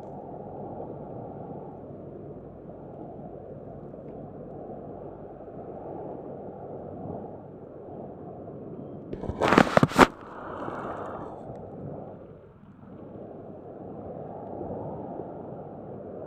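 Steady wash of sea surf that swells and eases every few seconds, with wind on the microphone. Around nine to ten seconds in comes a loud burst of several sharp crackles, the loudest thing here, followed by a short hiss.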